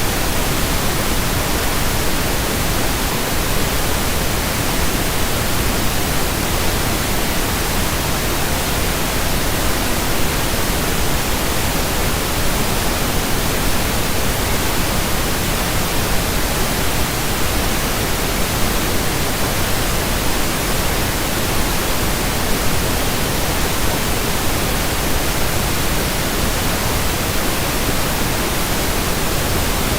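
Steady pink noise: an even, unchanging hiss across all pitches, with no rhythm or events.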